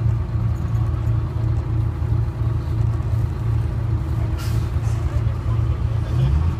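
Detroit Diesel Series 71 two-stroke diesel engine of a 1970-71 GMC New Look bus running steadily with an even low throb. There is one short hiss of air about four seconds in.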